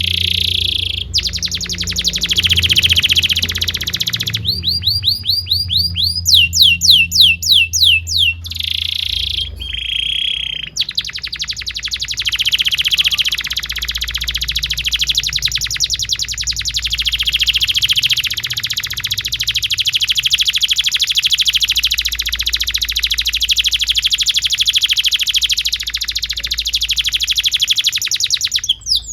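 Canary singing: a varied song of rapid rolls and repeated swooping notes, then one long, very fast trill lasting about eighteen seconds. A faint steady low hum runs underneath.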